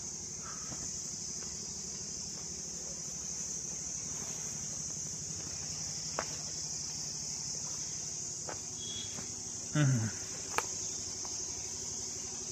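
A steady, high-pitched insect chorus, with a few faint clicks and a brief low voice sound near the end.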